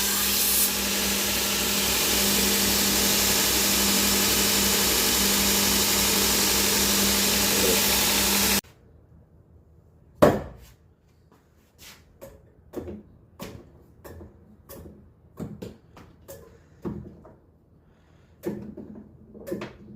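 Electric knife-sharpening grinder running with a steady motor hum and a hissing grind of steel on the abrasive, cutting off suddenly about eight and a half seconds in. After that come separate sharp clicks and knocks, the loudest shortly after the machine stops.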